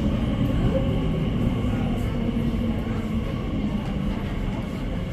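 Elizabeth line Class 345 electric train running into an underground station platform behind glass platform screen doors: a steady low rumble that gradually fades as the train slows.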